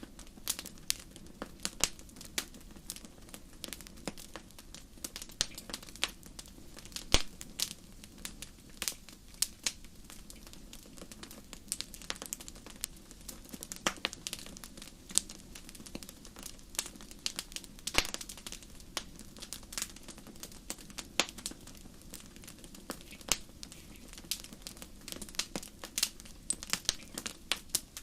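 Wood fire crackling in a fireplace: irregular sharp pops and snaps, several a second, over a faint steady low rush.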